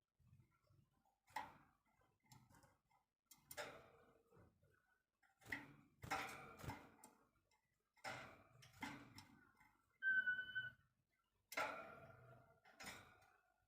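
Songbird giving sparse, short clicking calls one or two seconds apart, with one clear steady whistled note about ten seconds in.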